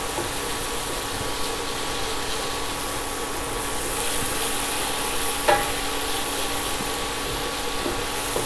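Garlic, shallots and spring onion sizzling in a little hot oil in a nonstick frying pan, stirred with a wooden spatula: a steady hiss, with a faint steady hum under it. One short, sharper scrape of the spatula about five and a half seconds in.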